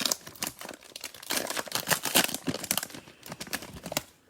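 Crinkling and tearing of a cellophane trading-card pack wrapper being handled and torn open, a dense run of crackles that is busiest in the middle.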